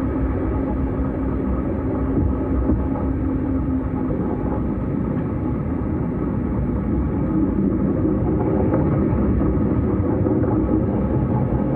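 S-Bahn electric multiple unit running between stations: a steady rumble of wheels on rails and running gear. A steady hum is heard in the first few seconds and fades out, and the rumble grows a little louder in the second half.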